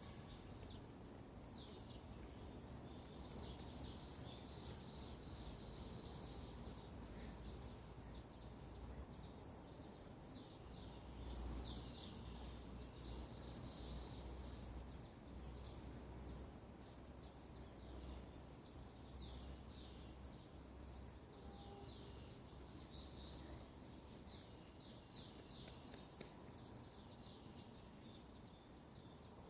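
Songbirds chirping in the morning, faint series of short, high, quickly repeated notes, over a steady low rumble.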